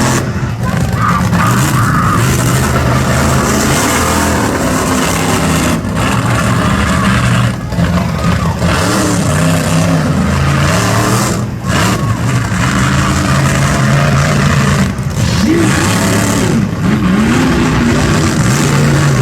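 Monster truck engine revving hard through a freestyle run. It is loud, its pitch climbs and falls repeatedly, and the throttle cuts briefly several times.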